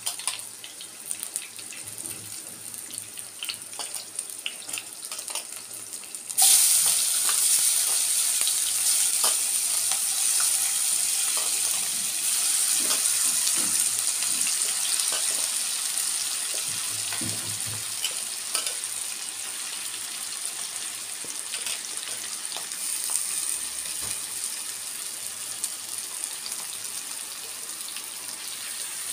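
Green chillies frying quietly in hot oil. About six seconds in, marinated prawns with onion and capsicum are tipped into the kadai and the oil sizzles loudly, then slowly eases. A spoon clinks and scrapes against the steel bowl now and then.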